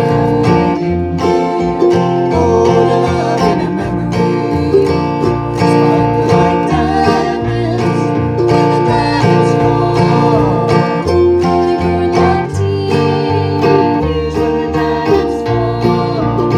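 A string band playing a bluegrass-style tune: guitar and banjo picking over a steady bass rhythm, possibly with a voice singing.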